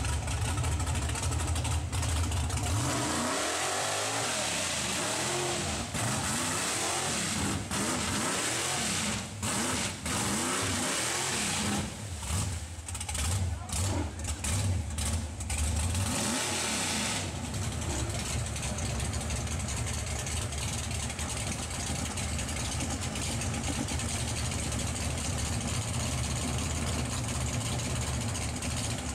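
Big off-road truck engine running, revved hard again and again with its pitch rising and falling for about fifteen seconds, then settling back to a steady drone.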